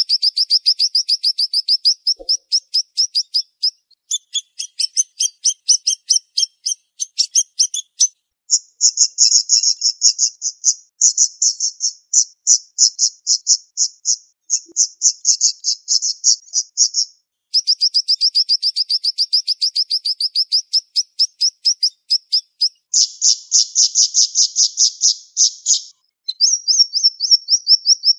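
Siri-siri songbird singing fast, high trills: runs of rapid, closely spaced notes lasting a few seconds each, with brief pauses between runs. This is the rapid "tembakan" burst song that birdkeepers play to train other birds.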